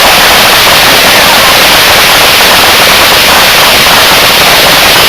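Fireworks crackling in a dense, continuous rattle, loud and steady with no separate big bangs.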